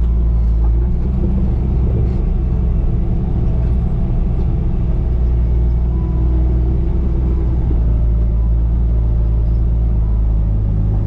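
Diesel engine of a Bobcat T595 compact track loader running steadily under work, a heavy low drone, with a few faint knocks.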